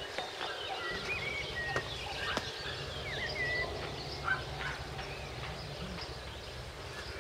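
Birds chirping and calling in short whistled phrases, most busily in the first few seconds, over a steady low background rumble.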